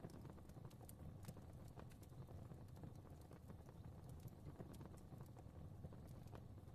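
Quiet crackling of a wood fire in a fireplace: small irregular pops and snaps, several a second, over a soft low rumble of the flames.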